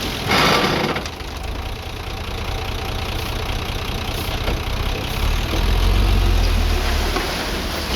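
Diesel engine of earthmoving machinery running, with a short loud rush of noise about half a second in; from about five seconds in the engine note deepens and grows louder, as if the machine is working harder.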